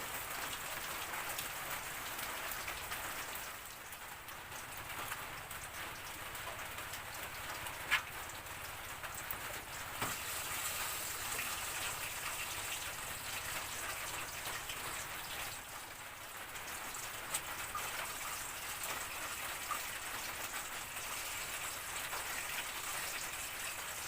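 Heavy rain falling steadily, with a couple of brief sharp clicks about eight and ten seconds in.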